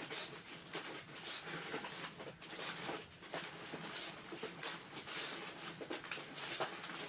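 Homemade cardboard tumble dryer turning, with a rustling, clattering sound that swells about every second and a third as the drum goes round.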